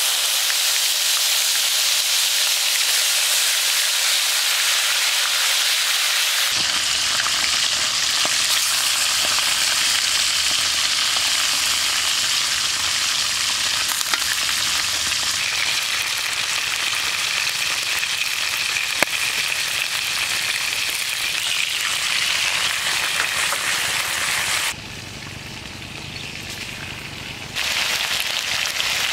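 Steady sizzling hiss of food frying in a hot wok, dropping quieter for a few seconds near the end before coming back.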